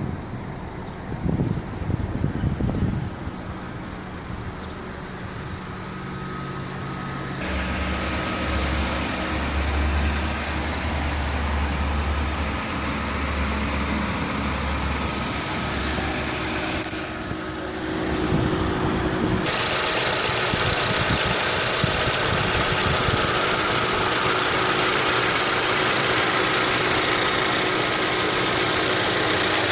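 2016 Honda Civic sedan's engine idling steadily, with a hiss that steps louder about seven seconds in and again about twenty seconds in; a few knocks come in the first three seconds.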